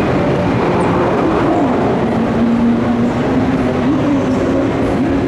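JNR-built 103 series electric train running along a station platform: steady wheel-on-rail rumble with a humming whine from the running gear that wavers up and down in places.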